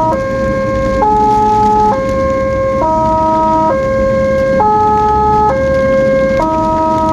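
Ambulance siren sounding a stepped multi-tone pattern, jumping to a new pitch about once a second, over the low hum of the vehicle.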